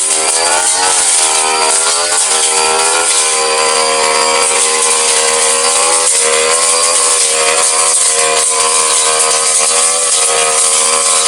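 Brush cutter engine running at high revs while a metal grass-cutting blade spins, with a hiss of cutting noise over it. The engine pitch dips and recovers several times in the first few seconds, then holds steadier with occasional small dips.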